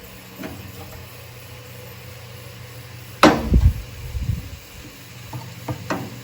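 Metal parts and tools knocking during hands-on disassembly of the mower: one sharp clank about three seconds in, then a few lighter knocks, over a steady low hum.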